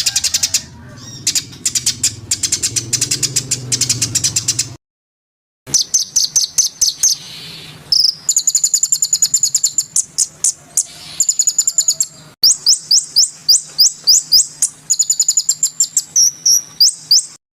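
Songbird song played for training: quick trains of high, sharp chirps and rising whistled notes. It breaks off to silence for under a second about five seconds in, then resumes.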